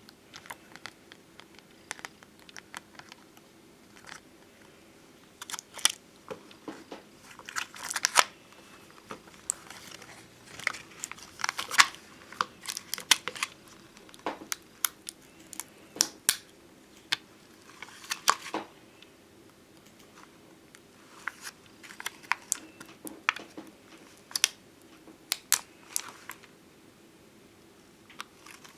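Close-up handling of thick glossy bonbon drop and ohajiki stickers: irregular sharp clicks and taps mixed with short crinkly peeling and scraping of the stickers and their plastic backing sheet.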